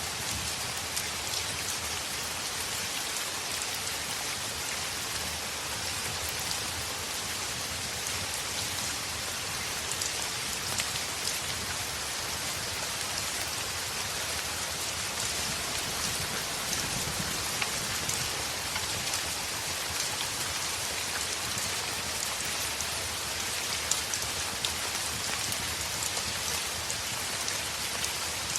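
Steady heavy rain, with scattered sharp ticks through it.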